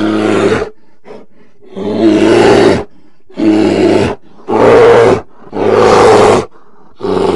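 A bear roaring: about six short, rough roars, each a second or less, with brief pauses between them.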